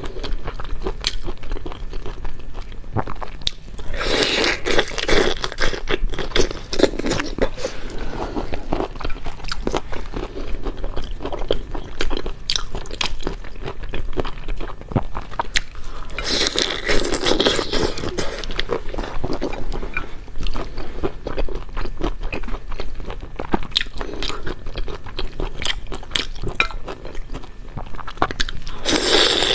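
A person biting and chewing crunchy food close to the microphone, wet crunches and smacking clicks, with louder stretches of crunching three times.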